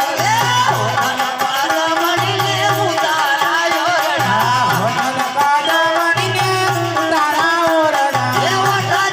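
Live ramamandal folk music: a singer's wavering, ornamented voice over percussion, with a low note that repeats about once a second.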